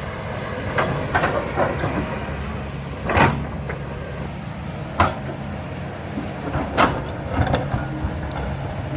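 Diesel engine of an earthmoving machine running steadily, with a series of sharp clanks and scrapes from digging in rock and soil; the loudest knocks come about three, five and seven seconds in.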